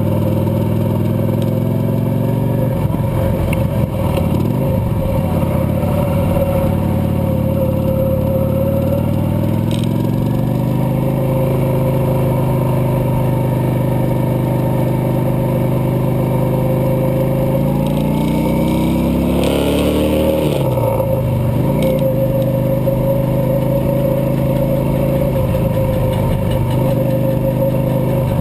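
Cruiser motorcycle engine running under way, its note rising and falling with the throttle; a little past halfway the pitch climbs steadily for a few seconds, then drops sharply as the throttle is rolled off or a gear is changed.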